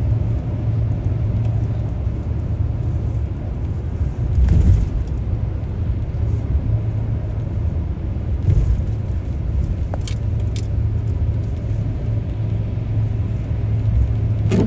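A car driving on the road, with a steady low rumble of engine and tyres. Two heavier bumps come about four and a half and eight and a half seconds in, and a few light clicks come around ten seconds.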